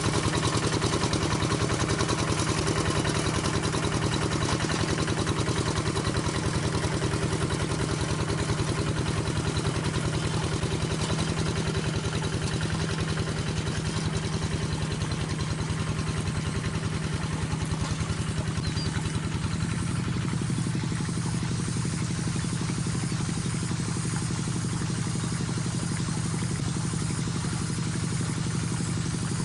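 Single-cylinder diesel engine of a two-wheel rice-paddy hand tractor running steadily with a rapid, even beat. About two-thirds of the way through it settles to a slightly lower, quieter speed.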